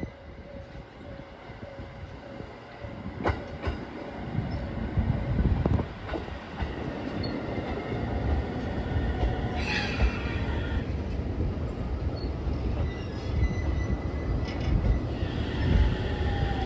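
JR Central 313 series electric train running on the rails, its rumble growing louder, with a brief wheel squeal about ten seconds in.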